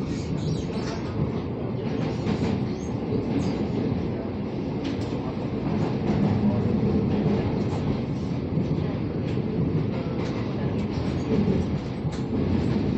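Steady running noise inside a Taiwan Railways local electric multiple-unit commuter train travelling between stations, a continuous low rumble with faint short clicks.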